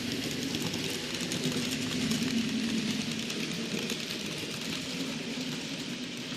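N gauge model Warship diesel locomotives running round the layout track with a train of wagons: a steady motor hum with fine, rapid clicking from the wheels on the rails.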